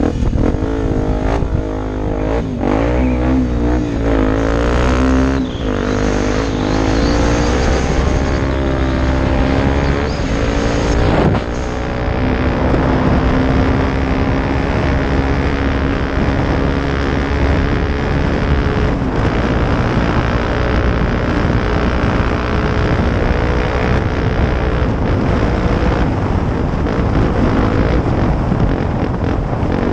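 Off-road motorcycle engine running, its pitch rising and falling over the first few seconds as the throttle is worked, then holding a steadier pitch.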